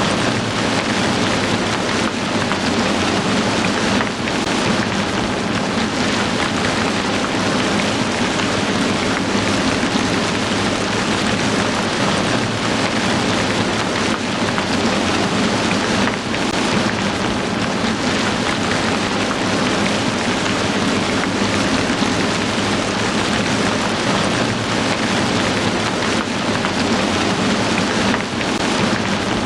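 Heavy rain falling steadily in a dense, even hiss, with no let-up.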